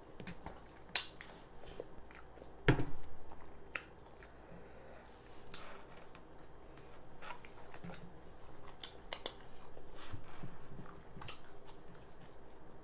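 Close-up mouth sounds of a person eating fufu, egusi stew and tilapia: chewing with wet clicks and lip smacks. There is one louder thump about three seconds in.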